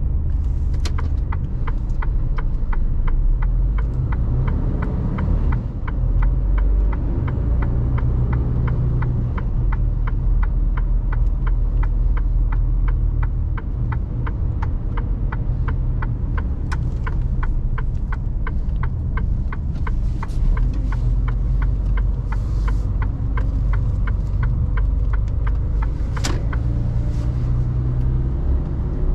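Mercedes Actros truck's diesel engine running with a steady low rumble, heard from inside the cab, with a steady rapid ticking, about two to three ticks a second, over it. A short sharp noise sounds near the end.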